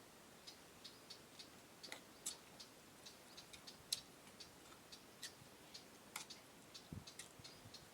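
Faint, irregular crisp clicks, a few a second, from chewing crunchy green papaya salad, with one soft low thump near the end.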